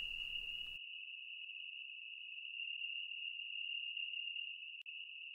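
Crickets chirring as a faint, steady high-pitched trill, with no other sound once the background drops away under a second in.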